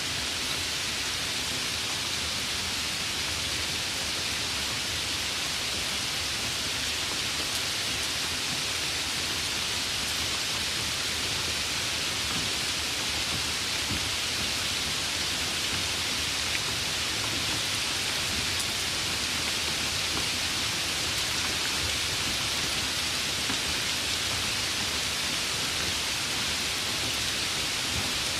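Steady rain falling, an even hiss with no pauses or changes.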